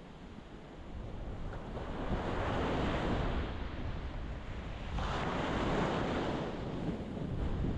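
Ocean waves breaking against a rocky shore: two surges of surf, one building about a second in and another rising sharply about five seconds in, over a low rumble of wind on the microphone.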